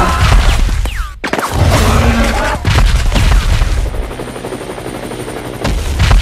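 Dubbed action sound effects: heavy booming crashes and rapid gunfire-like bangs. About four seconds in, these give way for a second and a half to a helicopter's rotor chopping, then loud impacts return near the end.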